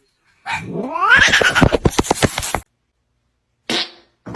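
A cat's drawn-out yowl, rising in pitch over about two seconds and then stopping abruptly, followed by a short noisy burst near the end.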